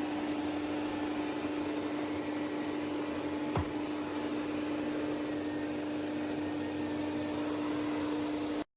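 Ecovacs Deebot T50 Pro Omni robot vacuum system running steadily, a motor hum over fan-like rushing, with one light click about three and a half seconds in. The sound cuts off abruptly just before the end.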